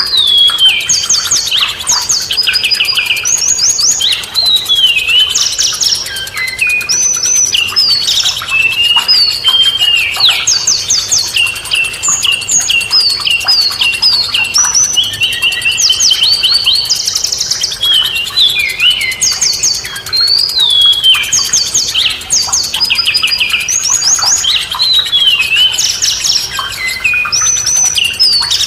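Songbirds singing without a break: a dense, varied mix of quick chirps, rapid trills and short downward-sliding whistles.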